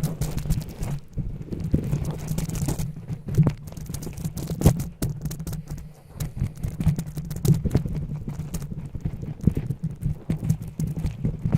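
Rapid, irregular clicks and taps over a steady low hum.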